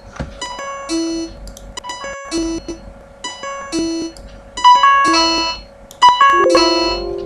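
Playback of a MIDI file whose notes are generated from geometric line segments. Short clusters of high, bright synthesized plucked notes repeat about every two-thirds of a second, with a lower held note between some of them. The clusters grow louder about two-thirds of the way in.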